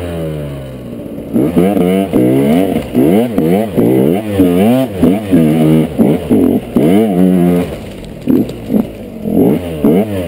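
KTM 125 EXC's single-cylinder two-stroke engine under hard off-road riding: the revs fall away over the first second or so, then surge up and drop back over and over in quick throttle blips. The revs settle lower briefly about eight seconds in before picking up again near the end.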